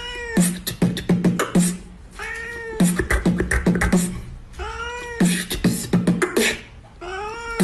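A cat's meow heard four times, about every two and a half seconds, each rising then falling in pitch and followed by a run of quick clicks with a low thump, like a beat. The meows repeat as a regular loop, as in a remix.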